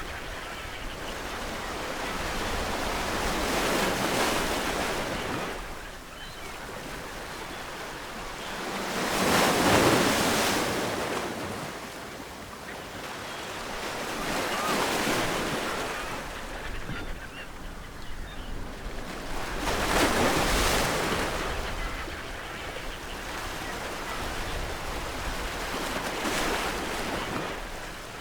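Ocean waves breaking on a shore, the surf swelling and receding in slow surges every five to six seconds, the biggest about ten and twenty seconds in.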